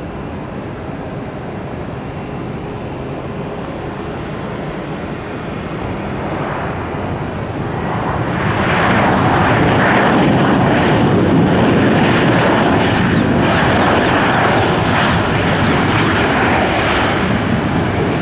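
Jet airliner's engines during its landing on the runway. The noise swells from about six seconds in and stays loud for the rest of the time.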